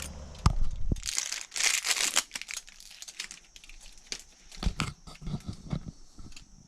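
Handling noise: two knocks, then a second or so of crinkling and rustling, followed by scattered light clicks and knocks.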